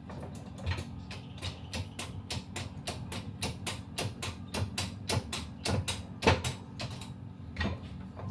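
A rapid series of sharp mechanical clicks, about three a second and slightly uneven, with the loudest click a little after six seconds in, over a steady low hum.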